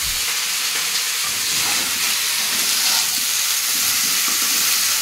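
Cauliflower florets frying in hot oil in a pan, a steady sizzle, stirred with a spatula.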